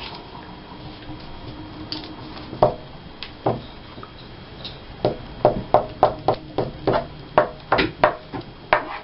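Short scuffing strokes of glue being rubbed onto paper: a few at first, then a quick run of about two to three strokes a second over the last four seconds.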